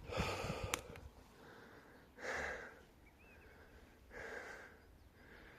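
A man breathing hard close to the microphone while hiking over rough ground, with a heavy breath about every two seconds.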